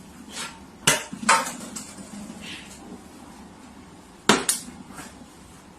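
Sharp knocks or bangs, in two pairs: one pair about a second in and another about four seconds in.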